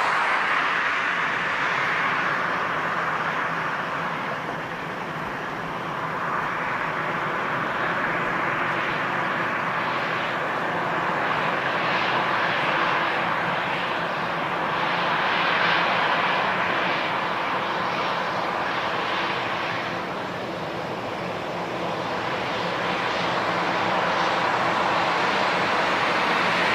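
Jet airliner engines running, a continuous rushing noise with a faint steady hum underneath that swells and eases slowly, dipping briefly about a fifth of the way in and again near the three-quarter mark.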